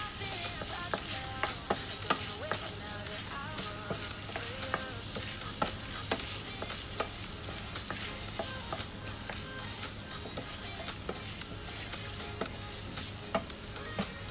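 Button mushrooms, diced onion and tomato paste sizzling in oil in a hot skillet as a wooden spatula stirs them. The spatula's frequent clicks and scrapes against the pan sound over a steady hiss.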